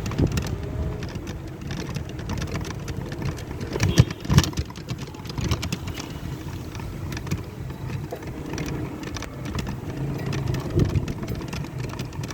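Rickshaw in motion: a steady low rumble of its wheels on the road, with frequent small rattles and knocks. Two louder knocks come about four seconds in.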